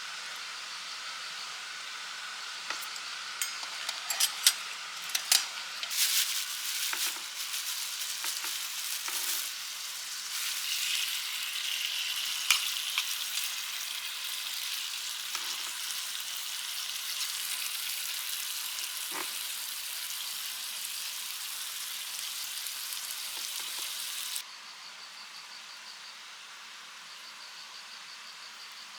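Steak sizzling and frying in a hot pan, with a few sharp clicks and clinks of utensils as it starts. Near the end it cuts suddenly to a quieter steady background with faint, evenly pulsing insect chirps.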